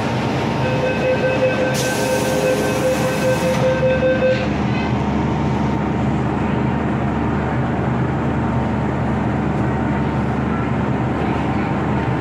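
Inside an MTR Kwun Tong Line M-Train carriage: a steady tone sounds for about four seconds with a short hiss in the middle, then the train's steady running noise with a low hum carries on.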